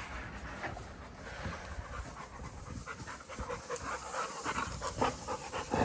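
A dog panting in quick, even breaths, growing a little louder in the second half.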